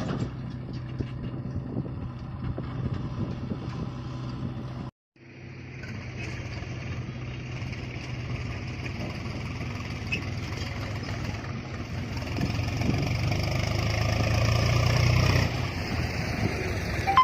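Diesel tractor engine running at top speed, a steady low drone with road and wind noise. The sound drops out for a moment about five seconds in, and the drone grows louder toward the end.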